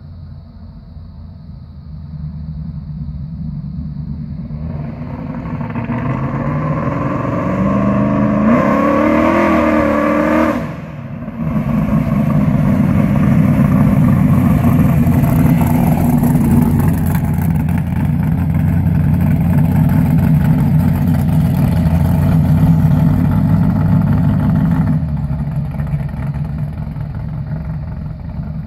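1975 Camaro's big-block Chevrolet V8 with a roller cam, driving up and getting louder, then revving with a rising pitch about eight to ten seconds in. It drops off briefly, comes back loud and steady as the car passes, and fades near the end.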